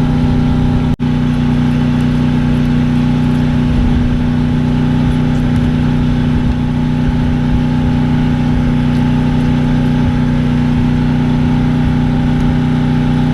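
A motor running steadily with a constant pitch. The sound cuts out for an instant about a second in.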